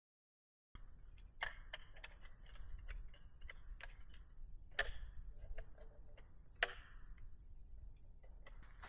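Scattered light clicks and knocks of camping gear being handled during unpacking and setup, a few sharper knocks among them, over a faint low rumble. The sound starts abruptly under a second in.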